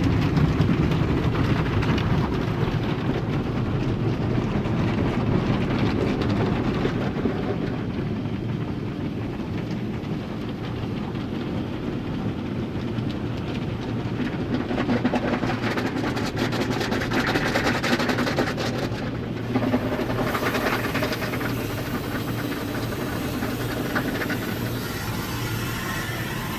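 Car wash machinery running: a steady mechanical rumble with hissing spray, and the hiss grows louder about two thirds of the way through.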